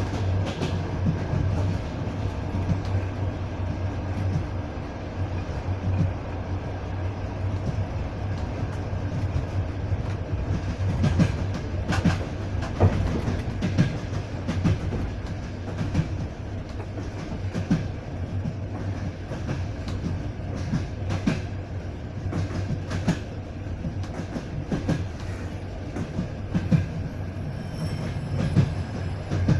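Passenger train running along the track, heard from a carriage window: a steady low rumble of wheels on rails, with uneven clicks and knocks from the running gear and track.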